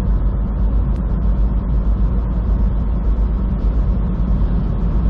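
Steady in-cab drone of a semi truck driving at highway speed: a heavy low engine rumble with tyre and road noise.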